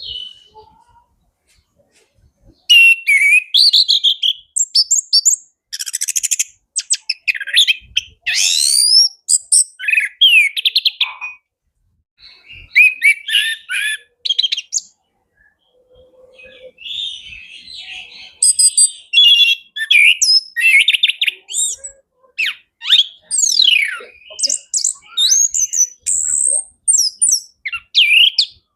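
Chestnut-capped thrush (anis kembang) singing a full, varied song packed with imitated calls: quick phrases of whistles, rising and falling sweeps and rapid trills, broken by a few short pauses.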